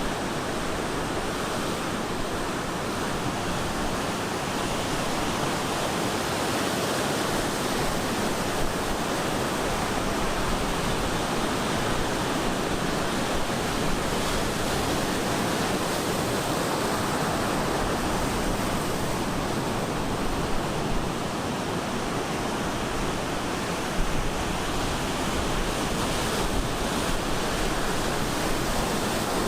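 Ocean surf breaking on the shore: a steady, continuous wash of waves, with some wind on the microphone.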